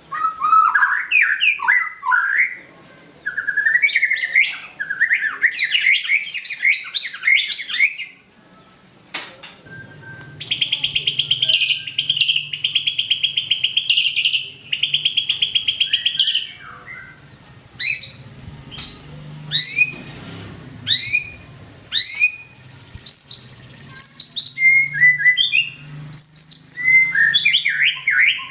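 White-rumped shama singing vigorously. It opens with varied whistled phrases, then gives four long, rapid buzzing trills about a third of the way in, then a run of short, sharp down-slurred whistles.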